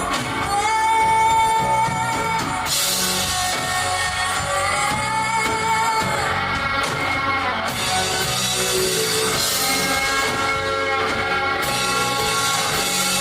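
A live rock band playing a song: a sung vocal line over electric guitar and drum kit. Cymbals come in about three seconds in, drop out about halfway, and return near the end.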